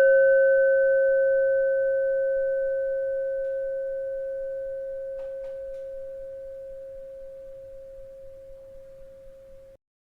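A single bell tone rings out, one steady pitch with a few higher overtones, slowly fading away. Just before the end it cuts off abruptly into silence.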